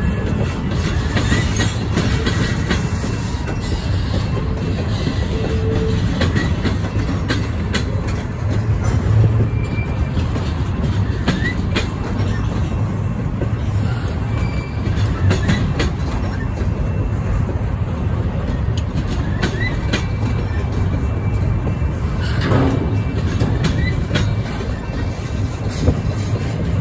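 Double-stack intermodal well cars of a freight train rolling past: a steady rumble of steel wheels on rail, with repeated clicks as the wheels cross rail joints and a few brief wheel squeals.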